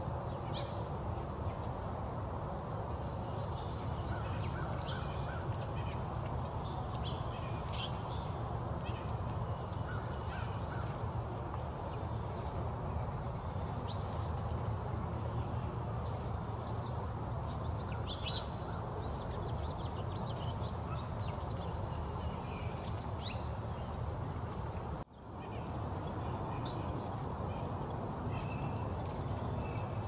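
Small backyard birds calling over and over with many short, high-pitched chips, over a steady low outdoor rumble. The sound briefly cuts out about five seconds before the end.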